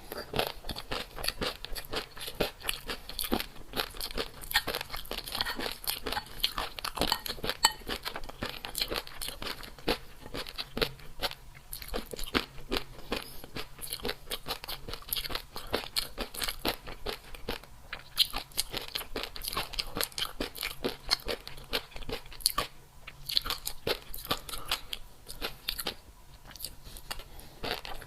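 Close-miked crunching and chewing of crisp food in a person's mouth: dense, quick crackling crunches that go on almost without pause, thinning briefly twice near the end.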